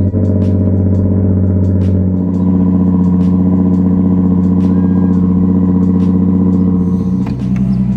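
Lexus IS300's engine idling steadily, its tone shifting about two seconds in and again near the end.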